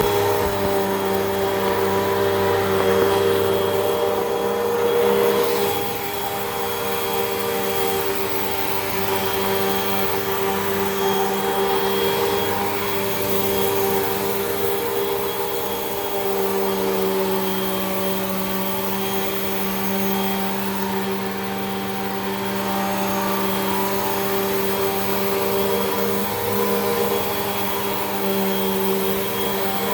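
Hoover WindTunnel 2 Rewind upright vacuum cleaner running steadily while vacuuming. Its motor note shifts slightly about six seconds in and again around sixteen seconds.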